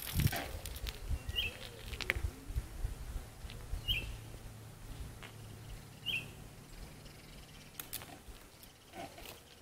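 A bird gives three short chirps about two seconds apart, over low rumbling and a few sharp clicks.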